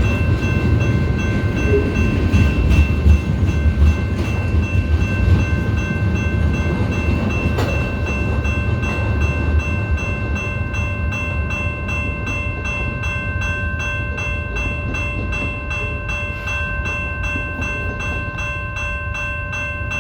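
BNSF freight train rolling by, its heavy low rumble dying away over the first half. Steady high ringing tones sound over it throughout and turn into a fast, even pulse in the second half.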